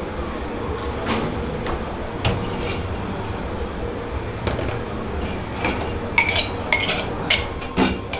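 Plates and cutlery clinking and clattering as they are handled, with scattered knocks at first and a quicker run of sharp clinks in the last two seconds, over a steady background hum.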